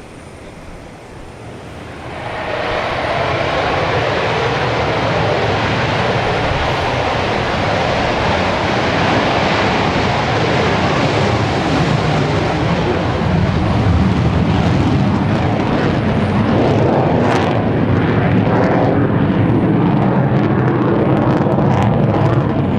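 Lockheed Martin F-35A's single Pratt & Whitney F135 afterburning turbofan: jet noise swells about two seconds in and stays loud as a steady, rushing roar.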